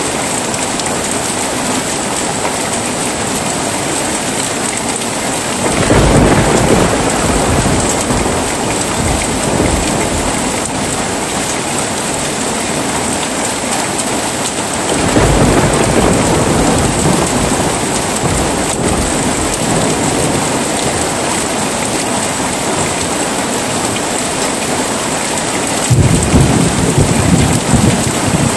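Heavy rain falling steadily, with three rolls of thunder: one about six seconds in, one about fifteen seconds in, and one near the end, each starting suddenly and rumbling away over several seconds.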